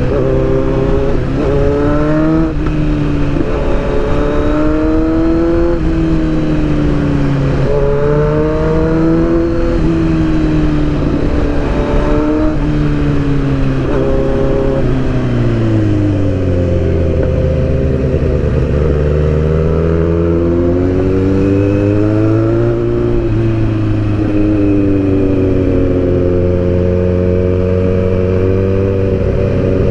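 Motorcycle engine heard on the move, its revs rising and dropping several times as it pulls through the gears. About halfway through the pitch falls as the rider eases off, then it slowly picks up again.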